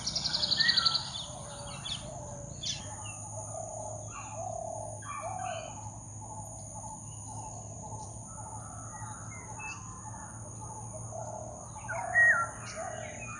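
Several birds calling in tropical jungle. A fast, high trill in the first second is the loudest sound, short lower calls repeat throughout, and a sharp louder call comes near the end. A steady high-pitched whine runs underneath.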